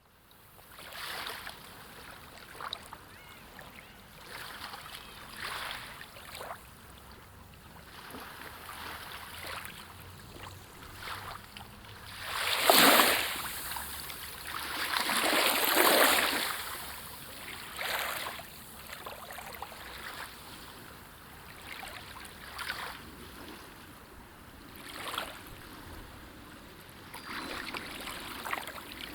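Sea waves washing in, the rushing surf noise swelling and falling away every few seconds. A sharp, loud wash comes about halfway through, followed by a longer one soon after.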